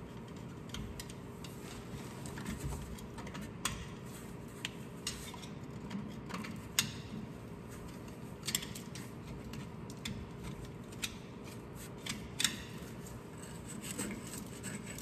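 Hand cleaning of a yoke's universal-joint cap seats: irregular metal clicks, taps and light scraping from a hand tool working in the bores.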